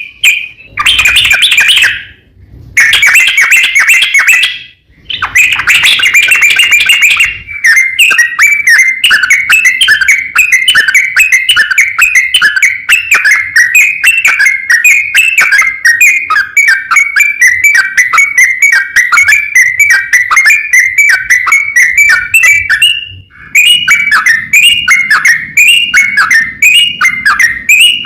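Yellow-vented bulbul singing a long, rapid rolling run of chattering notes. Short pauses break the song about two and five seconds in and again near the end.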